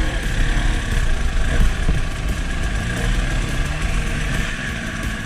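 Off-road motorcycle engine running while being ridden, its pitch rising and falling as the throttle changes, with a heavy low rumble underneath.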